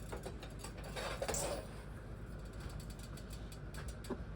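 Faint scattered clicks and light rattling of kitchen handling, with a short rustle about a second in, over a steady low hum.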